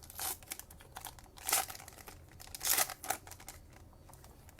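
Foil wrapper of a Topps Chrome baseball card pack being torn open and crinkled, in three short rustling bursts about a second apart.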